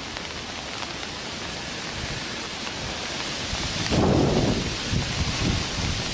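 Steady hiss of falling rain. About four seconds in, a brief low rush rises over it as a gust of wind buffets the microphone.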